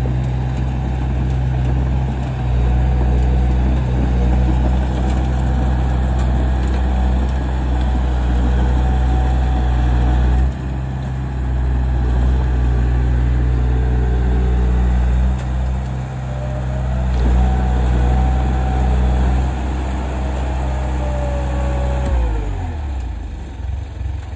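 Heavy diesel engine of earth-moving equipment running hard and steady, with a fainter whine above it. Near the end its pitch drops as it eases off.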